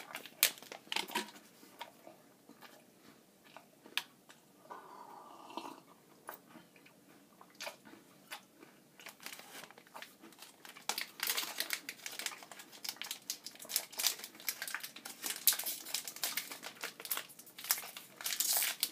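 Someone chewing and crunching a Nature Valley granola bar close to the microphone: irregular crunches, sparse at first, then denser and louder in the second half.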